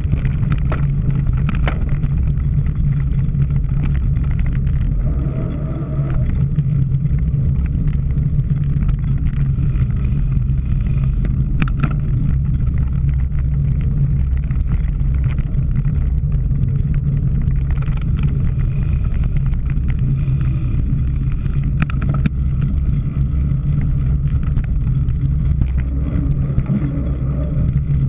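Steady wind rumble on the microphone of a camera riding along on a cyclocross bike, with occasional clicks and rattles from the bike over rough ground.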